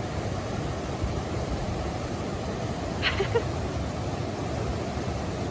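Steady rushing of a creek and small waterfall, with a brief faint higher sound about three seconds in.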